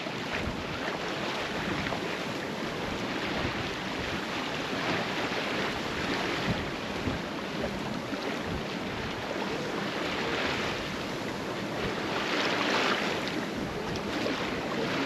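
Water rushing and splashing along a sailboat's hull while under sail, with wind blowing over the microphone. The hiss swells and fades every few seconds as the boat moves through the waves.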